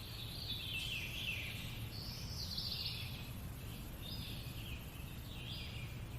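Songbird singing short warbling phrases, one about every second, over a steady low background rumble.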